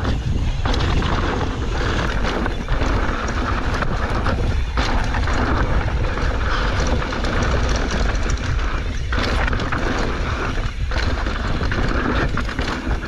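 Wind buffeting the rider's camera microphone over mountain bike tyres rolling on a rocky dirt trail, with the bike rattling and knocking over the bumps.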